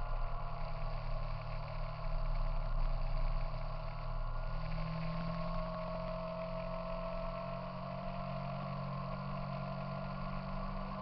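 A 2003 Triumph Sprint ST's 955cc three-cylinder engine running while the motorcycle is ridden, heard from a camera on its fairing. The engine note is steady, its pitch drifting slowly up and down with the throttle.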